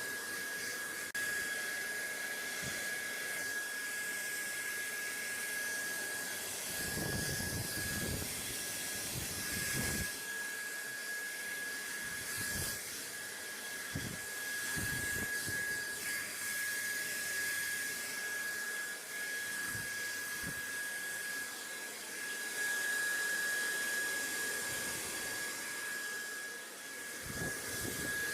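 Steady white-noise hiss with a constant thin high whine running through it, and low rumbling patches about a quarter of the way in and again near the end.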